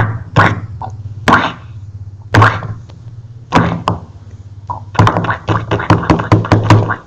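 A series of sharp thwacks and knocks, spaced about a second apart at first, then a quick flurry of hits about five seconds in, over a steady low hum.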